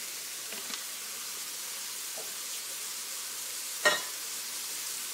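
Mushrooms, onions and garlic sizzling in hot oil in a cast iron wok, a steady hiss, with one short sharp knock about four seconds in.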